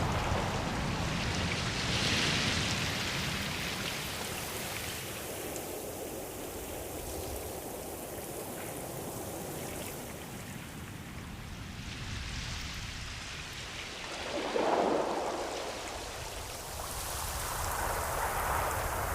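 Ocean waves washing in, a steady rushing that swells about two seconds in, surges again around fifteen seconds in, and builds once more near the end.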